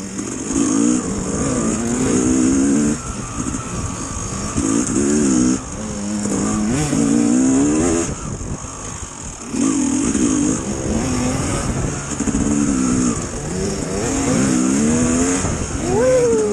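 Dirt bike engine revving up and down as it is ridden, the throttle opened and closed every second or two with short dips between. A quick sharp rise in revs near the end.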